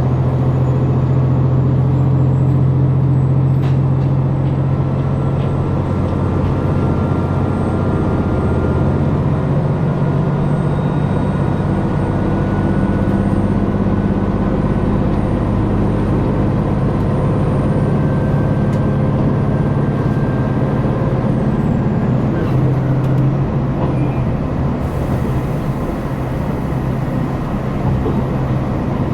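KiHa 261 series diesel railcar engine running under power as the train accelerates, heard from inside the passenger car: a steady low drone, with a faint whine that climbs slowly in pitch over the first twenty seconds or so.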